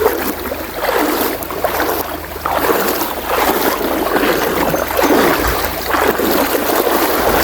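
Fast river current rushing and splashing around a person's legs while wading, the water noise swelling and ebbing in repeated surges.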